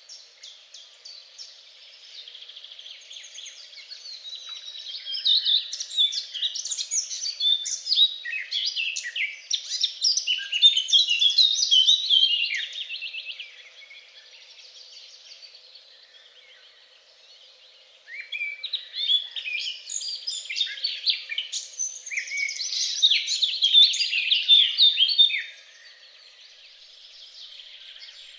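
Songbirds singing: long, fast, twittering song phrases, loud for several seconds at a time, twice, with quieter chirping in between.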